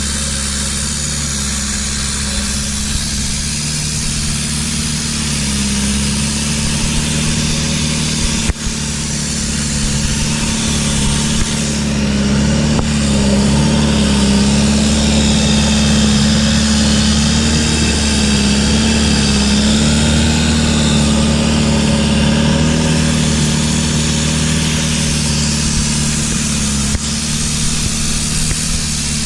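A fishing boat's engine running steadily under way, with wind and water rushing past; the engine gets a little louder about twelve seconds in. A single short knock sounds about eight seconds in.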